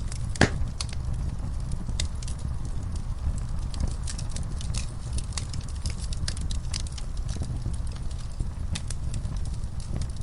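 Wood fire in a fireplace crackling, with irregular sharp pops over a steady low rumble. One loud pop comes about half a second in.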